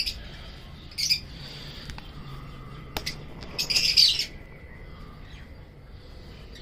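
Pet bird chirping in short high-pitched bursts: one at the start, one about a second in, and a longer run of chirps near four seconds. A single sharp click comes a little before the last run.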